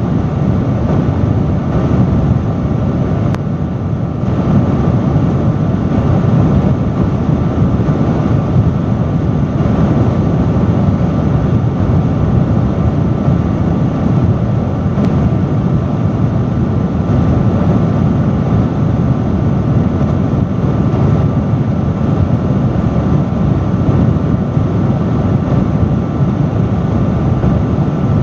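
Industrial fan running steadily: a loud, constant rush of air with a low rumble and a faint steady hum from the motor.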